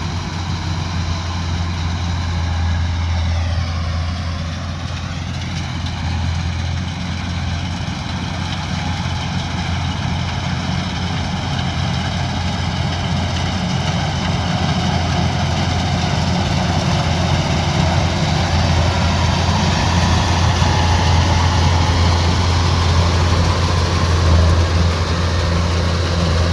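Kubota DC-105X combine harvester running steadily with a heavy low engine hum; its pitch sags briefly about four seconds in, then recovers.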